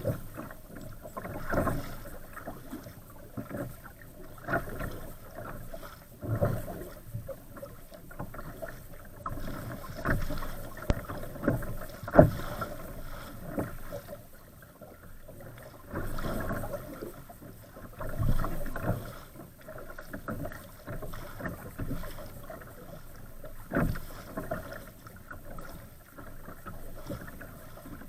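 Water splashing and slapping against a kayak's hull as it is paddled through wind-driven waves, in irregular surges every one to two seconds.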